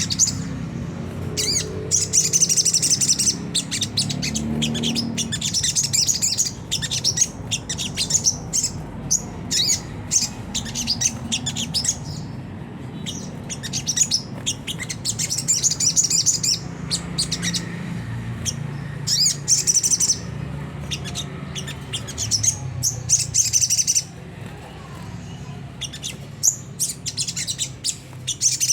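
Little spiderhunter (sogon) giving harsh, rapid chattering calls in short bursts every couple of seconds, over a low hum.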